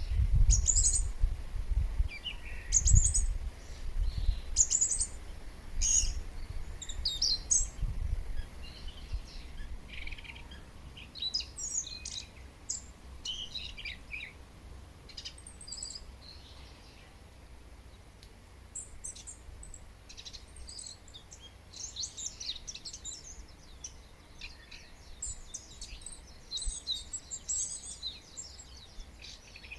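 Wild birds chirping and calling, several at once, in short high notes, growing into a denser chorus in the second half. A low rumble sits under the first several seconds.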